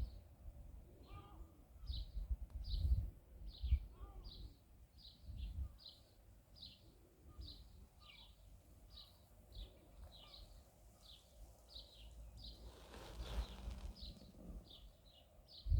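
A bird repeating a short, high chirping call, about two or three notes a second, over a low rumble. A brief hiss swells about thirteen seconds in.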